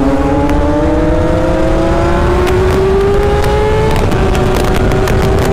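Sport motorcycle engine pulling under steady acceleration, its pitch rising slowly, with a gear change about four seconds in, over heavy rumbling wind noise.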